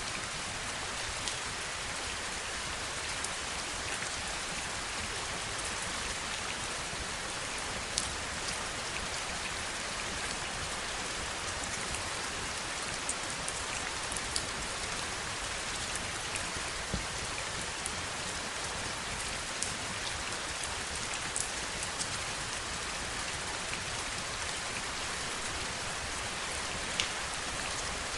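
Heavy rain falling in a steady hiss, with single drops ticking sharply here and there.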